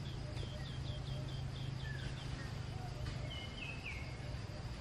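A small bird calling: a quick run of about ten short, high, falling chirps over two seconds, then a longer call that steps down in pitch about three seconds in, over a steady low hum.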